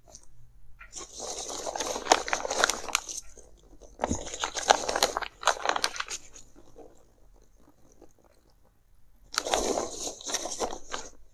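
Headphone box and packaging handled close to the microphone: crinkling and scratching with many small clicks and taps, in three spells, the second ending about six seconds in and the last starting about nine seconds in.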